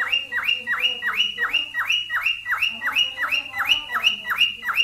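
Cockatiel mating call: a short whistled note that drops sharply in pitch, repeated quickly and evenly about three times a second.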